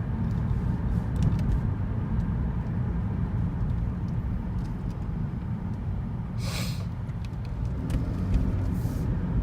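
Steady low road and engine rumble inside a moving car's cabin, with a brief hiss about six and a half seconds in.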